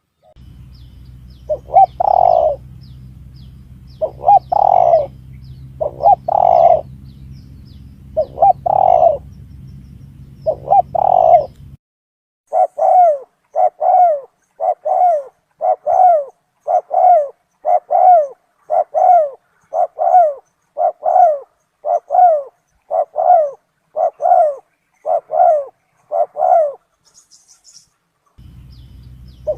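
Spotted doves cooing, a looped lure recording: phrased coos over a low hum for the first half, then a quick run of short, falling coos about one a second, a short pause, and the phrased coos with hum starting again near the end.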